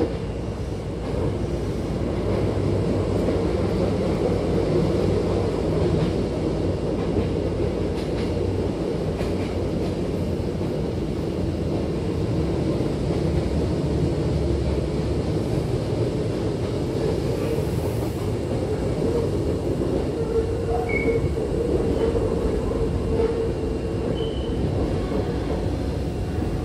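Inside a moving Hankyu train car: the steady rumble of the wheels on the rails, with a constant hum under it.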